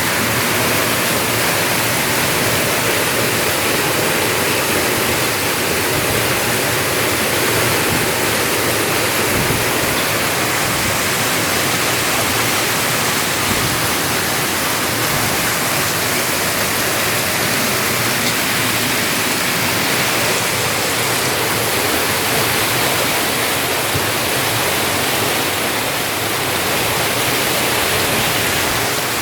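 Heavy rain falling, a steady loud rush of water with no let-up.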